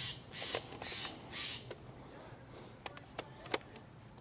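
A bird giving a run of harsh, noisy calls in the first second and a half, followed by a few sharp clicks later on.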